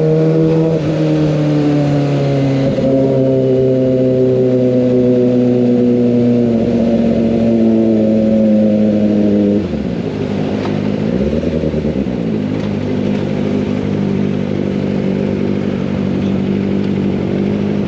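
Kawasaki ZX25R inline-four through an Over Racing GP-RS full-system exhaust, its note falling steadily as the bike slows off the throttle. About ten seconds in the sound drops sharply in level and pitch, dips and rises once briefly, then settles into a steady lower note.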